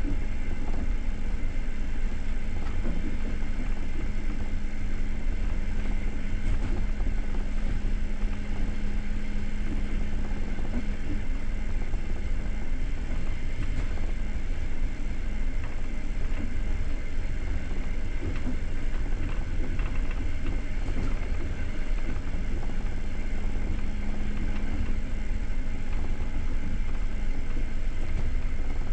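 Passenger train coach running along the line, heard from inside: a steady rumble of wheels on rails with a faint hum that comes and goes.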